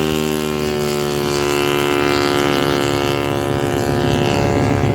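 A drag-tuned Honda Karisma's 125 cc single-cylinder four-stroke engine held at high revs with a steady pitch, its lower part turning rougher near the end.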